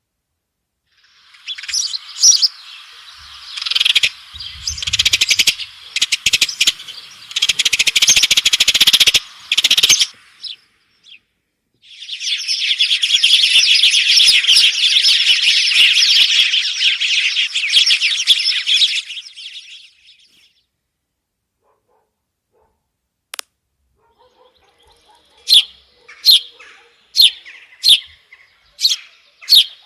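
Small birds chirping: a dense, overlapping chatter of many birds for several seconds, a second long burst after a short break, then single sharp chirps repeated a little more than once a second near the end.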